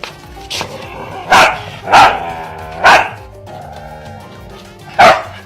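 A dog barking four times in loud, sharp barks, over steady background music.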